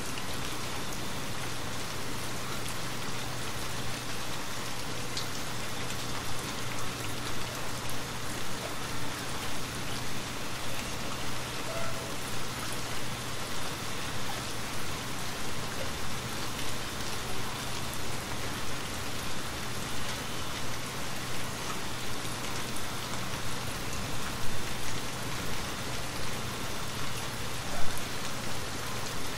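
Steady rain falling on a wooden cabin, a dense even hiss of drops that swells and ebbs slightly in loudness, with a short sharp pop near the end.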